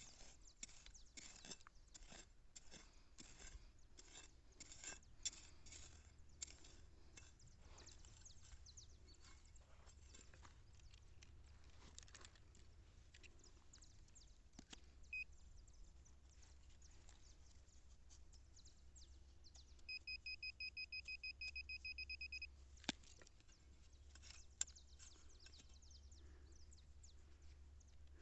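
Faint scraping and clicking of digging, then a single short beep and, about 20 seconds in, a metal detector giving a rapid string of high beeps at one pitch for about two and a half seconds, signalling metal in the hole.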